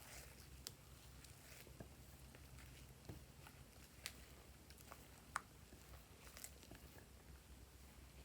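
Faint, scattered sticky clicks and pops of fluffy slime being handled, with the sharpest click about five seconds in, over a low steady hum.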